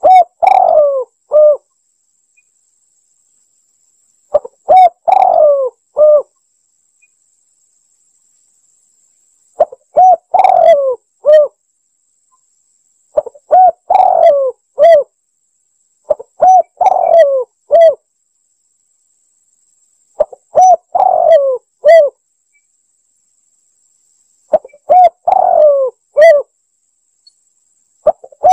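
Spotted dove (tekukur) cooing, a lure-call recording: loud phrases of several short coos, each phrase about two seconds long, repeated about every four seconds.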